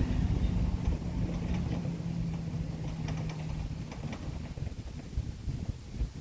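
Volvo FH 480 truck's diesel engine running with a low, steady hum that fades out about four seconds in, with wind buffeting the microphone.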